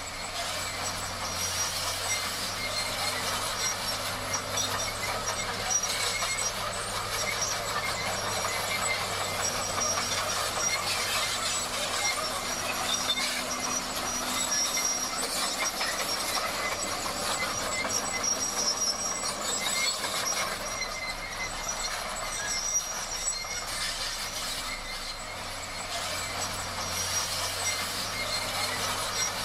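Komatsu D58 crawler bulldozer working, its steel tracks clanking and squealing over a steady engine hum.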